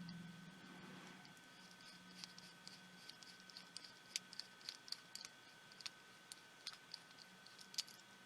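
Faint, irregular small clicks, a few a second, of a precision screwdriver working a tiny screw out of a pico projector's casing.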